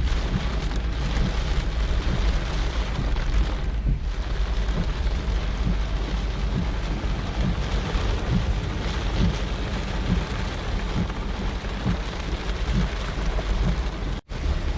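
Heavy rain falling, a steady dense hiss over a strong low rumble. The sound drops out for an instant near the end.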